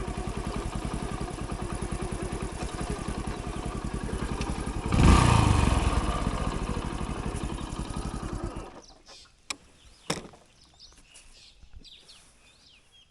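Hero Splendor's single-cylinder four-stroke engine running with an even, steady beat, briefly revved louder about five seconds in, then switched off suddenly about two-thirds of the way through, followed by a few sharp clicks.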